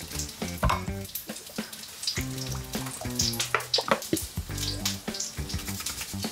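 Food sizzling as it fries in a pan, with sharp clicks and scrapes of stirring, over background music with a steady stepping bass line.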